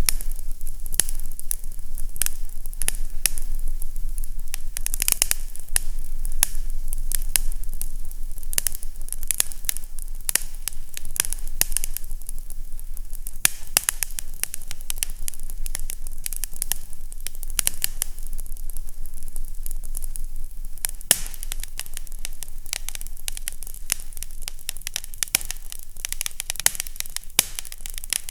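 Wood fire in a fireplace crackling: dense small pops and clicks over a steady hiss, with a low hum underneath.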